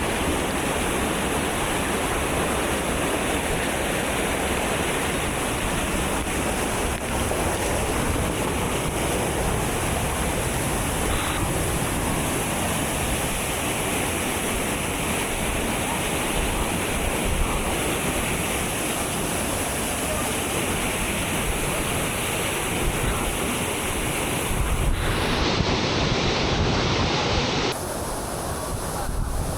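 Steady rush of the Hidlumane waterfall, a loud, even roar of falling water. About 25 seconds in the sound changes, and near the end it becomes quieter.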